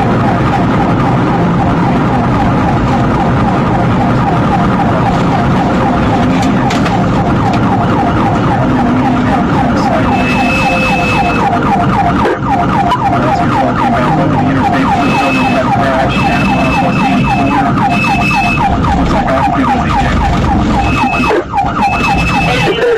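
Emergency-vehicle siren in a fast yelp, its pitch sweeping up and down several times a second without a break, over vehicle engine and road noise. A short, high, steady beep sounds several times in the second half.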